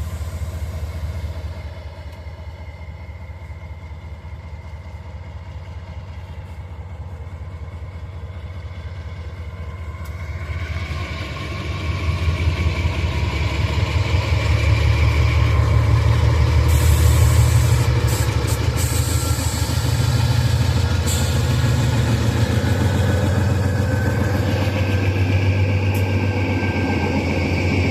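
Freight train's diesel locomotives approaching, a heavy low engine drone growing steadily louder and peaking about two-thirds of the way in, with rising rolling noise and a few brief sharp clicks.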